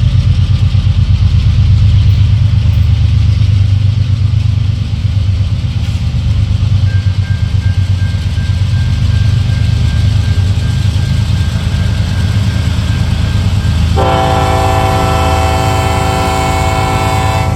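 Norfolk Southern diesel locomotive's air horn sounding about fourteen seconds in, held steady over a continuous low rumble.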